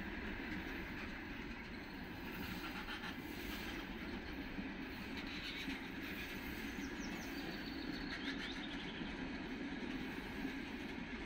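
Freight train of covered hopper wagons rolling past: a steady rumble and clatter of steel wheels on the rails.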